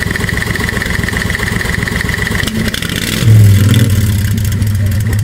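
V-twin engine of a 1992 Club Car golf cart running, its note stepping up sharply in loudness about three seconds in and then holding steady.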